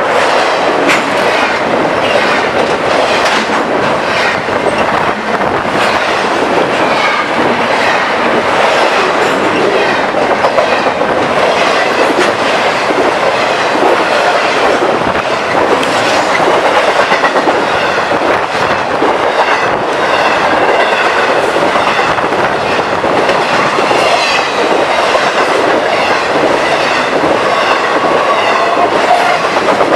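Train passing close by: steady rumble of wheels with a rhythmic clickety-clack over the rail joints and faint wheel squeal now and then.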